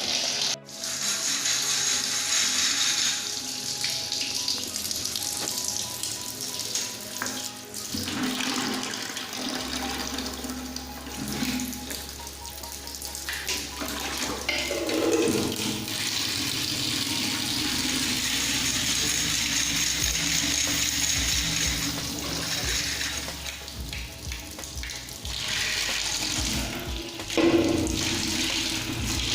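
Water spraying and splashing, heavier at times and easing off in between, as a window air conditioner is washed during servicing.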